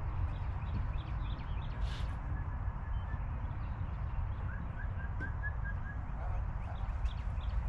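Wind rumbling on the microphone, with a small songbird giving a short run of six or seven evenly spaced chirps in the middle.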